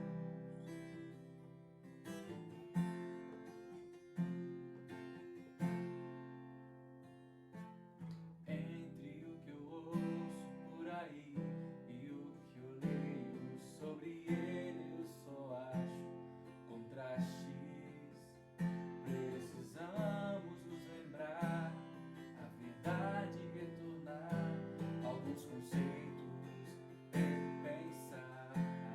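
Instrumental worship music led by acoustic guitar, chords strummed at a steady, unhurried pace, with a melody line joining about a third of the way in.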